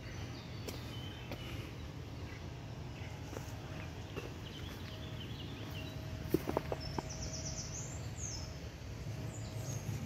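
Small birds chirping and trilling in short phrases over a steady low background hum, with a few sharp clicks a little past the middle.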